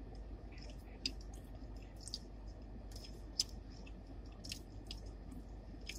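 A person chewing and eating close to the microphone, with scattered wet mouth clicks and smacks over a faint steady low hum.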